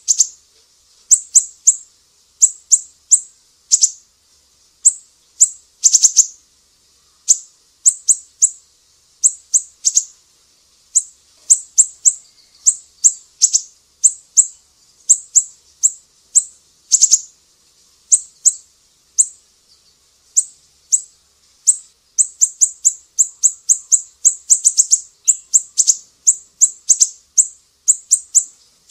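Recorded songbird calls: short, very high chirps that each drop quickly in pitch, repeated in quick clusters of two to four with short gaps between them.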